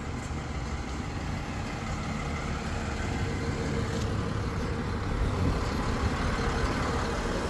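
Truck-mounted crane's engine running steadily, a low rumble that grows somewhat louder about three seconds in.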